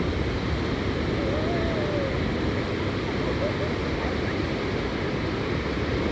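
Steady wash of gentle, low surf on a sandy beach with wind on the microphone; no single wave breaks out above the rest.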